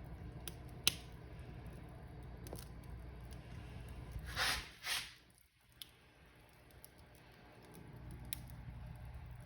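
Wood fire in a fireplace crackling over a low steady rumble, with scattered sharp pops and two louder hissing crackles close together about halfway through.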